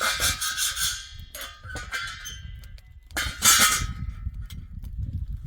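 Metal clanging and clinking, several strikes ringing briefly, with a loud clash about three seconds in, then a few light clicks.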